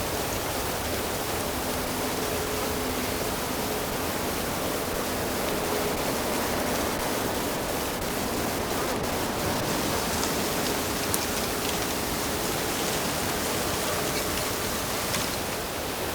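Steady rush of running water, an even hiss with a few faint ticks and splashes.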